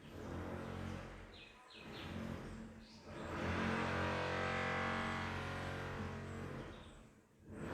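A low droning hum of several steady pitches that swells and fades away twice, with a few short bird chirps about a second and a half in.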